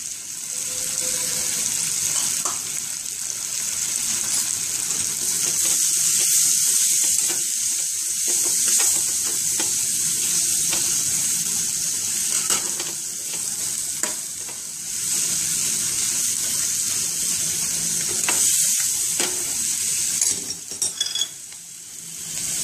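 Onion, peas and spices frying in hot oil in a stainless-steel kadhai, with a steady high sizzle, while a steel spoon stirs and scrapes the pan now and then. The sizzle eases briefly near the end.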